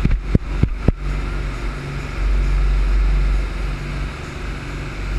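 Speedboat under way: steady engine drone under a heavy rush of wind and water, with a few sharp thumps in the first second.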